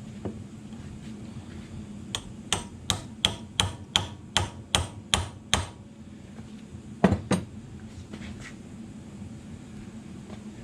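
Hammer tapping on a drive shaft universal joint during U-joint replacement: a run of about eleven light, even taps at roughly three a second, then two harder blows close together.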